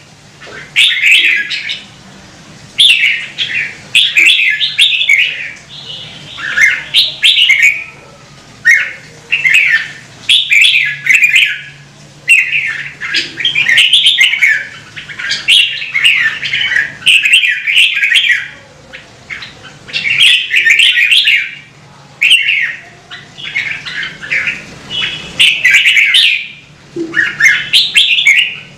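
Red-whiskered bulbul singing: a string of loud, short warbled phrases, each about a second long, with brief pauses between them. A faint steady low hum lies underneath.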